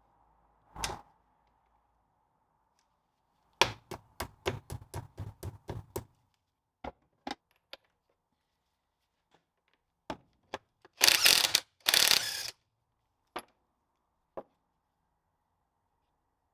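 Socket ratchet clicking in a quick run of about ten strokes, undoing the fixings of a Land Rover Series 2 front hub's drive flange. Scattered single metal clicks follow, and there are two loud rasping bursts near the end.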